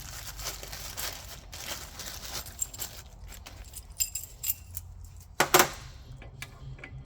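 Small metal parts clinking and rattling as they are handled, with thin metallic rings among the clicks and one louder clatter about five and a half seconds in.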